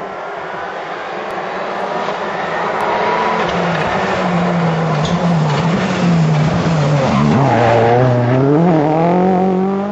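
Rally car engine approaching and working through a hairpin, its revs rising and falling with gear changes as it gets louder and reaches its loudest shortly before the end, with tyre noise under it.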